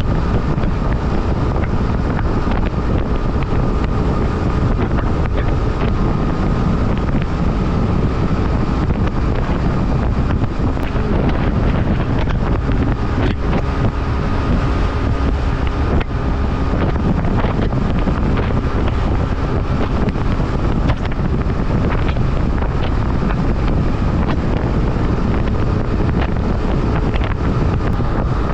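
BMW F800R's parallel-twin engine running steadily under way, mixed with heavy wind buffeting on the microphone.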